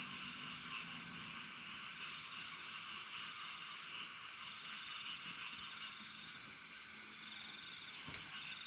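Night insects chirping and trilling steadily, with a fast-pulsing trill that comes and goes.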